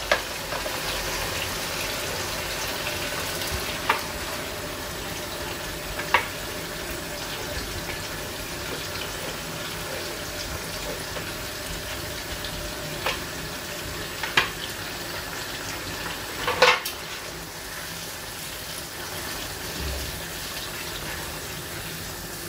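Chicken frying in a wok with a steady sizzle as a thick blended paste is scraped in from a plastic blender jug with a spatula. Half a dozen short, sharp knocks of the spatula against the jug and wok, and stirring with a wooden spoon near the end.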